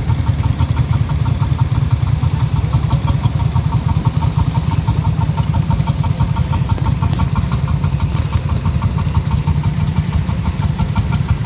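A combustion engine idling steadily, its exhaust giving a fast, even pulse.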